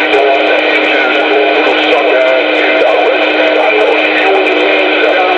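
A CB radio transmission coming through the receiver's speaker: distorted, narrow-band audio of a wavering, sing-song voice over a steady tone, with crackle.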